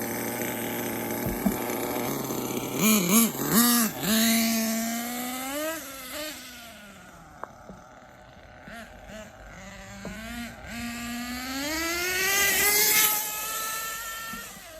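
Two-stroke nitro engine of an RC truggy, a Hong Nor Force 32 (5.2cc), revving during break-in and tuning runs: a few quick throttle blips, then longer runs whose pitch climbs and falls as the truggy speeds up and slows, quieter in the middle and fading near the end.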